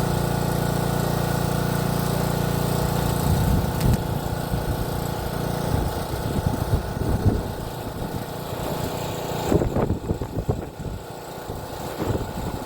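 Strong wind buffeting the microphone: a steady low rumble for the first few seconds, then irregular gusts.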